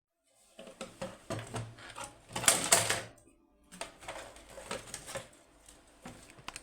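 Plastic parts of a robot vacuum being handled on a bench: a run of irregular clicks, knocks and clatter, loudest about two and a half seconds in.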